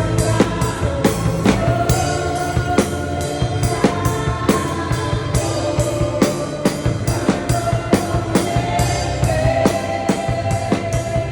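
Drum kit played live to a steady rock beat, bass drum and snare, over a backing track of the song with held chords. The recording is raw, picked up by a phone microphone with no audio processing.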